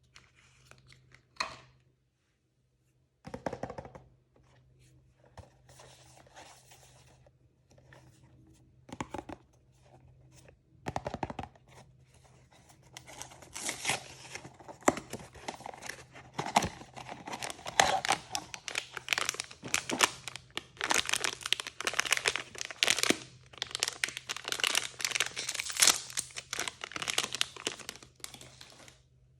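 Blind-bag packaging being handled and torn open: scattered rustles and knocks at first, then steady tearing and crinkling from a little under halfway in until just before the end.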